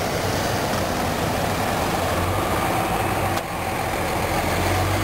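Truck engine idling close by: a steady low rumble, with a brief dip about three and a half seconds in.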